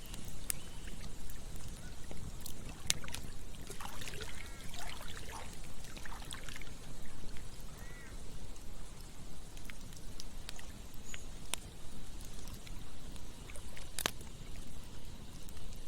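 Campfire crackling, with scattered sharp pops (the strongest about fourteen seconds in), over a steady rush of running water. A few short animal calls come through around the middle.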